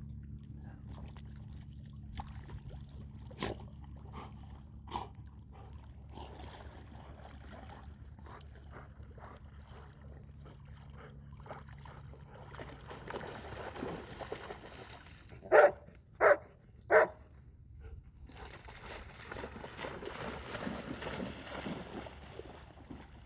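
A dog barking three times in quick succession, each bark short and loud, over a steady low hum that stops a little before the barks.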